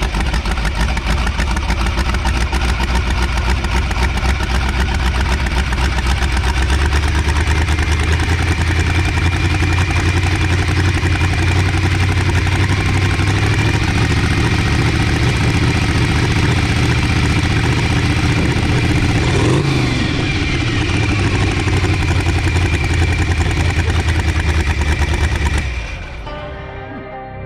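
A motor vehicle engine running loudly and steadily, with a heavy low rumble. About a second and a half before the end it cuts off suddenly and soft music takes over.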